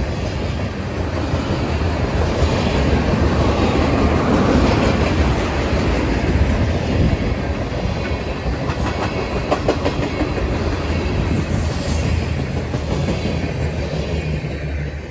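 Tank cars of a freight train rolling past, steel wheels rumbling on the rail and clicking over the joints. The noise drops off near the end as the last car goes by.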